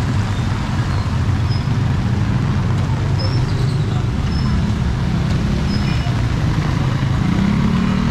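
A motor vehicle's engine running steadily close by, its pitch rising a little near the end, over a haze of street noise, with a few faint short chirps.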